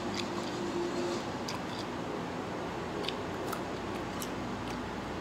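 Close-up chewing and crunching of a cucumber slice, heard as scattered short, irregular clicks over a steady background hum.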